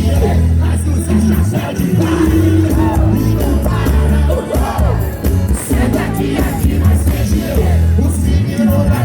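Live band music with a heavy bass line and singing voices.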